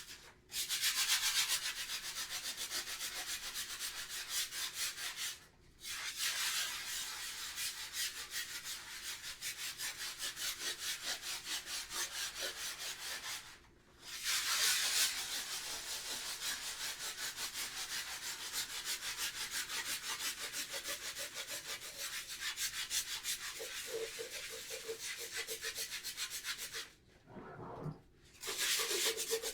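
Scrubbing of a bathroom surface during a deep clean: long runs of quick, even rubbing strokes, broken by a few short pauses and a longer pause near the end.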